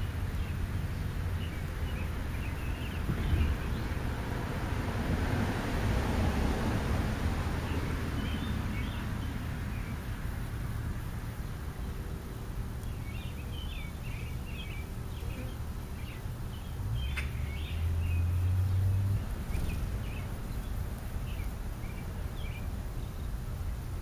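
Small birds chirping in short scattered calls, busiest in the middle of the stretch, over a steady low outdoor rumble that swells for a few seconds early on and again briefly later.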